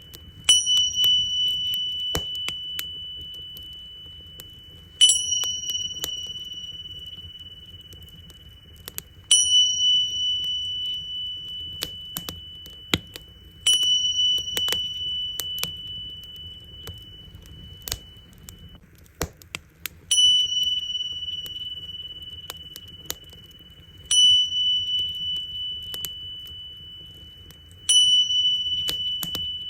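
Tingsha cymbals struck seven times, roughly every four seconds, each strike a bright high ring that fades away over several seconds. Underneath, a wood fire crackles with scattered sharp pops.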